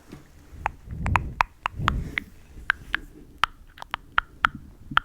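A series of small, sharp, close-up clicks or taps, about two to four a second, with two soft low rustles about one and two seconds in.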